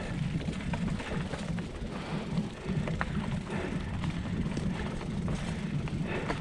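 Mountain bike rolling over rocky singletrack: a steady low rumble of tyres on trail, with scattered clicks and rattles from the bike over rocks.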